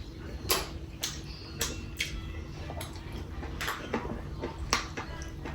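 Eating sounds during a meal of curry and rice: about six sharp, irregularly spaced clicks and smacks over a faint low hum.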